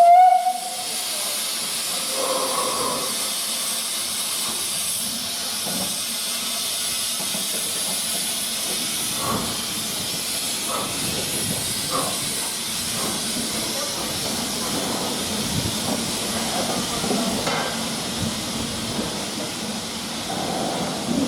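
Steam locomotive hissing steadily, opening with a brief loud whistle note, with a few faint metallic knocks partway through.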